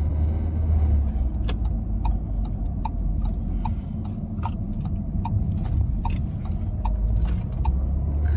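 Low rumble of a car heard from inside the cabin, with the turn-signal indicator ticking steadily at about two to three clicks a second from about a second and a half in.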